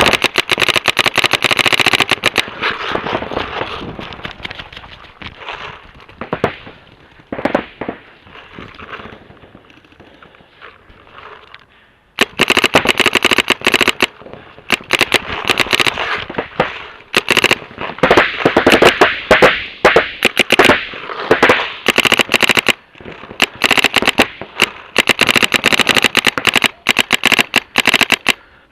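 Paintball markers firing in rapid strings of shots. Heavy fire for the first couple of seconds, scattered single shots through a lull in the middle, then sustained rapid fire again from about halfway to near the end.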